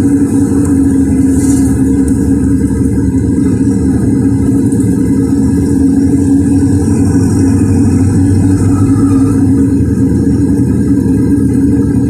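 LiAZ 4292 city bus engine running steadily under way, heard from on board, with a constant low hum.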